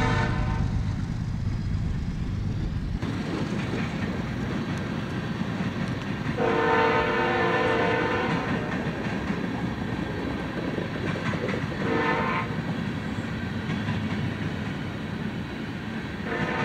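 Loaded freight train of tank cars rolling past with a steady rumble and wheel clatter. A diesel locomotive's multi-note horn sounds over it: a blast ending just after the start, a longer blast about six seconds in, a short one near twelve seconds and another beginning near the end, in the long–short–long of a grade-crossing signal.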